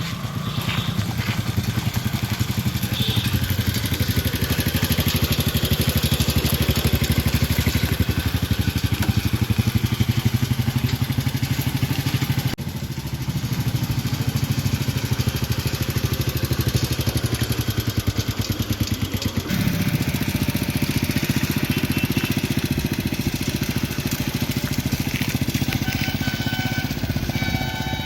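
Single-cylinder 150cc motorcycle engine in a homemade three-wheeler, running steadily with a rapid, even exhaust beat. The sound changes abruptly twice, about twelve and a half and nineteen and a half seconds in.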